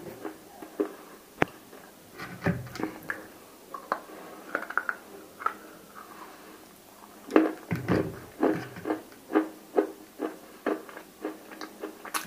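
Close-miked crunching and chewing of cubes coated in roasted nakumatt paste: sharp crackling bites and chewing clicks, scattered at first and coming thick and fast from a little past halfway.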